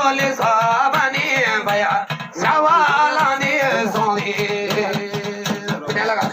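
Garhwali folk song: a voice sings a long, wavering melodic line over a steady, rapid drum beat.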